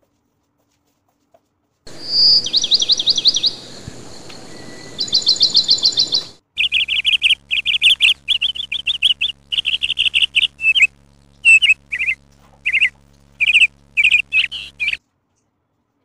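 Recorded bird calls. About two seconds in come two bursts of rapid, high trilling, then from about six seconds in a run of short whistled chirps, some in quick strings, stopping about a second before the end.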